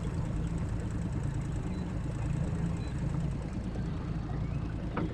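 Boat motor running steadily at low trolling speed, a low even rumble, with one short knock near the end.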